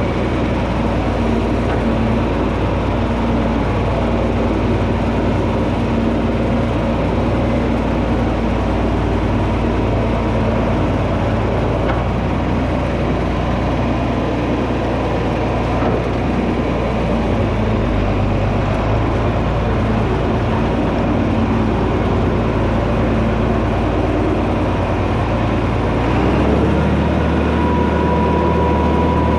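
John Deere 4320 tractor's six-cylinder diesel engine running steadily while working a front blade; the engine note changes about three-quarters of the way through.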